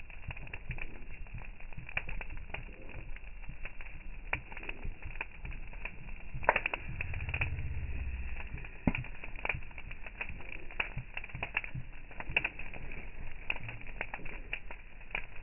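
Fire crackling: irregular sharp snaps and pops over a low rumble, with louder snaps about six and a half and nine seconds in.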